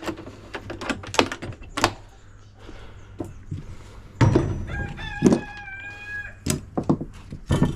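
Metal parts and tools knocking and clinking as a dishwasher motor is handled, with one heavier knock about four seconds in. Just after it, a rooster crows once in the background for about a second and a half.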